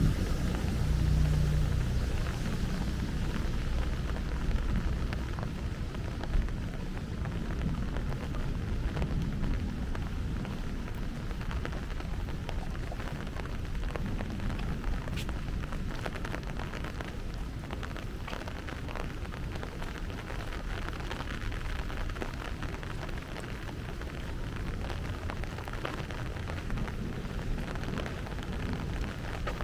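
Heavy rain falling steadily on pavement and hard surfaces, with the close patter of individual drops. A low rumble of thunder dies away in the first couple of seconds.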